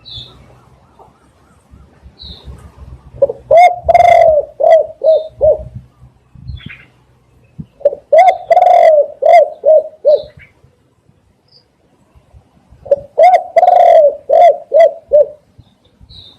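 Spotted dove cooing: three phrases, each a run of low coo notes with one longer note near its start, a few seconds apart. Faint high chirps from small birds are heard between the phrases.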